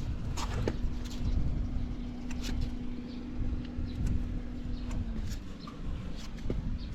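Yamaha Breeze 125 ATV's four-stroke single-cylinder engine idling with a steady low hum that eases off about five seconds in, running without unusual noise according to the seller.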